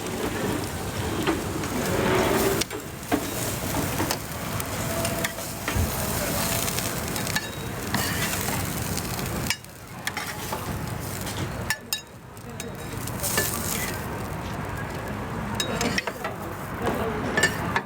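Egg-filled pancake (jidan guanbing) sizzling in oil on a griddle, with scattered sharp clicks and scrapes. The sizzle drops away briefly twice in the middle.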